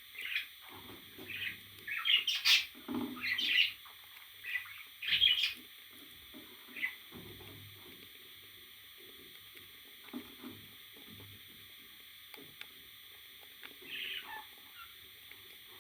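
Pet parrot chirping and squawking in short calls, a loud flurry of them in the first six seconds, then mostly soft scuffling, with one more call sliding down in pitch near the end.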